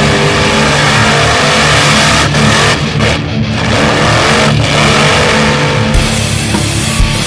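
Loud vehicle engine revving, its pitch gliding up and down in the middle; the sound changes abruptly about six seconds in, with music coming to the fore.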